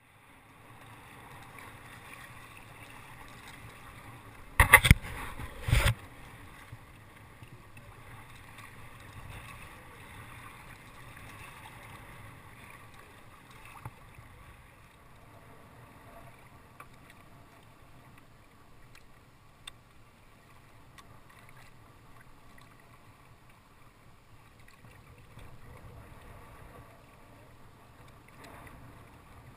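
Steady wash of sea water and wind around a fishing kayak, with two loud knocks about five and six seconds in.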